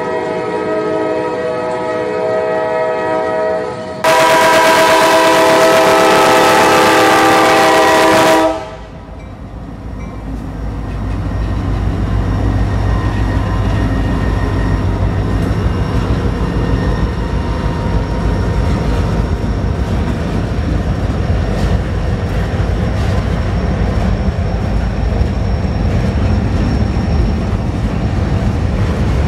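Kansas City Southern freight train sounding its multi-tone air horn for a grade crossing. The horn gets louder about four seconds in and cuts off about eight seconds in. The diesel locomotives and freight cars then rumble steadily past, with the wheels clicking over the rail joints.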